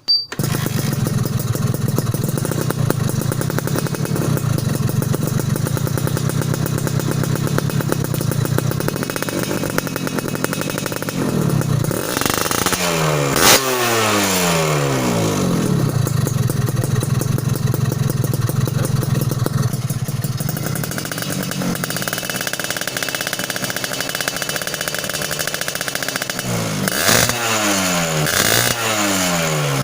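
Suzuki Satria two-stroke motorcycle engine idling steadily through an exhaust muffler packed with glasswool, coming in suddenly at the start. It is blipped a few times about twelve seconds in and again near the end, the revs dropping back to idle after each blip.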